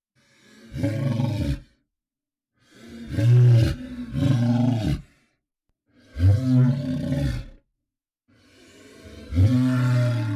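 Large monster bellows, a creature sound effect: four short, hard, deep calls with silent gaps between them, the second coming in two pushes.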